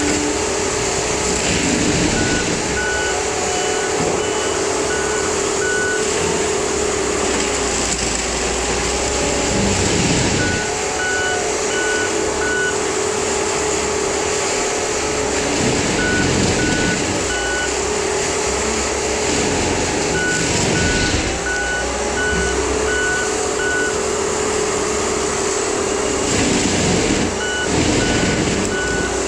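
Case 620 skid steer running hard with its Shearex mulching head spinning, a steady hum under the engine, and several brief surges as the head takes on material. The machine's backup alarm beeps in several short runs as it reverses.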